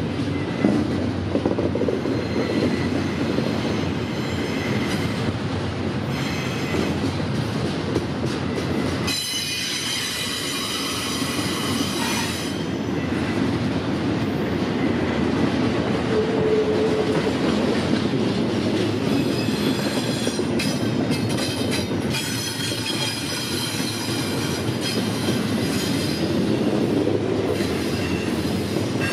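Freight train cars rolling past with a steady rumble and clatter of wheels on rail. High-pitched wheel squeal comes in spells, first about a third of the way in and again in the last third.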